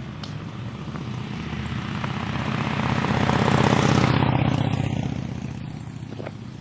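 An engine passing by, swelling to its loudest about halfway through and then fading.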